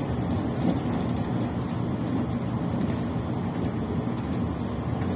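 Steady running noise inside the carriage of a tilting electric train at speed: an even low rumble of wheels on rails and the running gear.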